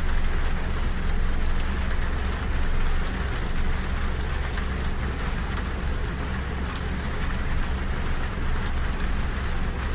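Rain pattering on a train window over the steady low rumble of a moving passenger train.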